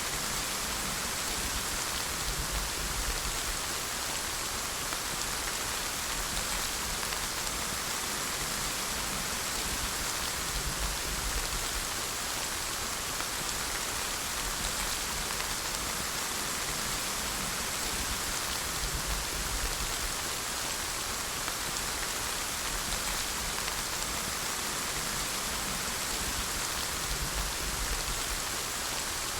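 Steady rainfall, an even hiss of drops pattering on surfaces, with a faint low rumble underneath.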